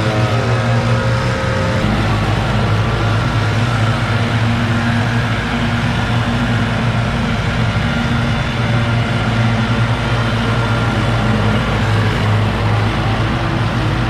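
Engines of leaf clean-up equipment running steadily at high speed: a low, even engine hum with a thin, steady high whine above it.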